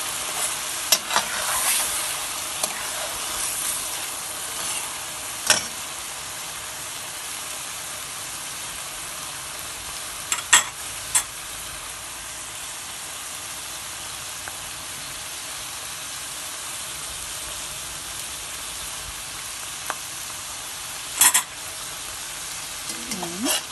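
Onion, garlic and tomato paste sizzling steadily in hot oil in a metal pan, a little louder at first. A few sharp clinks of a stirring spoon knock against the pan.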